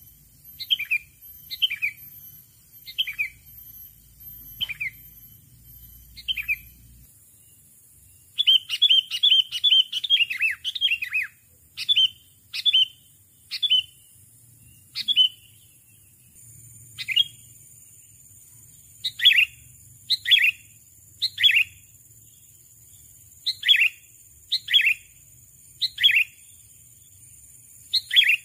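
Sooty-headed bulbul (kutilang) calling: short, sharp, falling chirps about once a second, with a quick rapid run of chirps a little over a quarter of the way in.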